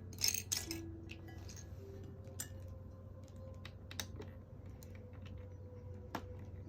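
Small plastic LEGO pieces clicking and clattering as they are handled: a quick run of sharp clicks at the start, then single clicks every second or two. Faint background music from the drama plays underneath.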